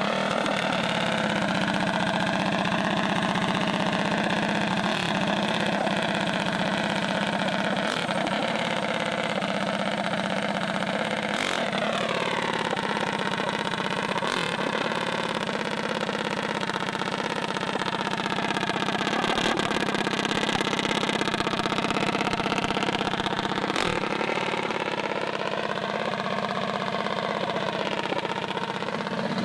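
Small mini bike engines idling, their pitch drifting slowly up and down as the throttles are eased, with a quick drop and rise about twelve seconds in.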